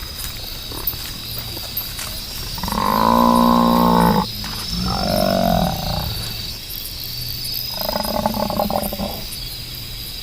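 Three long, pitched calls from a large animal, each about a second and a half, over a steady chorus of night insects.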